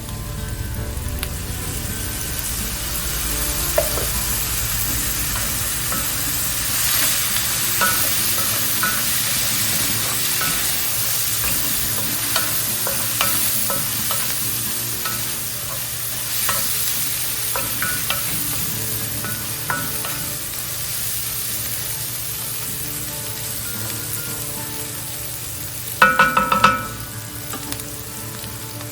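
Food frying in olive oil in a heavy skillet, a steady sizzle with occasional light scrapes and taps of a utensil in the pan. Near the end comes a brief loud clatter of ringing metal.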